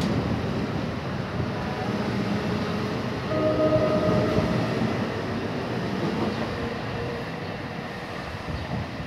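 Bi-level commuter coaches of a departing NJ Transit train rolling past on the rails. About three seconds in, a short blast of more than a second from the K5LA five-chime horn on the ALP-46 locomotive at the far front of the train, sounded as a warning for track maintenance equipment ahead. The rolling noise eases slightly near the end as the last car passes.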